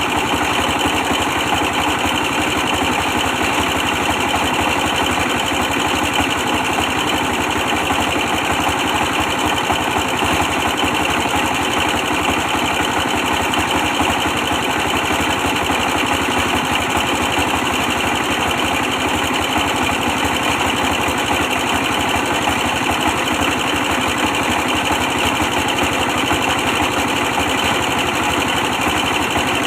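A 24 hp stationary diesel engine running steadily with a fast, even beat.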